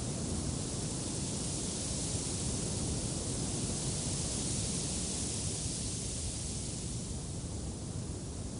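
Steady wind noise, a hiss over a low rumble, swelling slightly in the middle and easing near the end.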